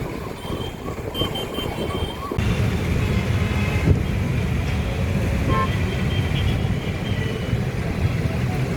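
A quickly repeating, rising siren-like wail for the first two seconds or so. It breaks off abruptly into steady road-traffic noise with a dense low rumble.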